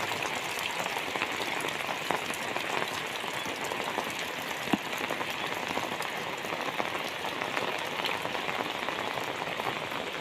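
Heavy rain falling steadily, a dense hiss dotted with the ticks of individual drops, with one sharper tap a little before the middle.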